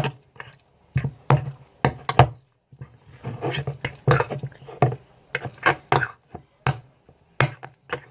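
A utensil clicking and knocking against a container while stirring a liquid soap and food-colouring mix for slime: irregular taps, two or three a second.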